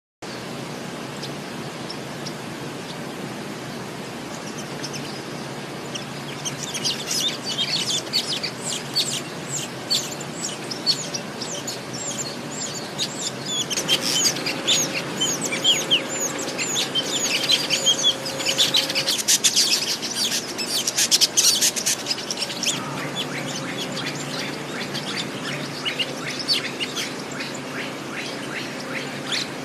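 Birds chirping: a busy run of short, high chirps starting about six seconds in, densest in the middle and thinning toward the end, over a steady background hiss.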